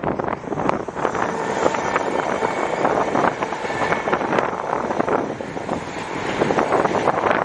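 DF200 diesel-electric locomotive running with a freight train, a steady dense noise, with strong wind buffeting the microphone.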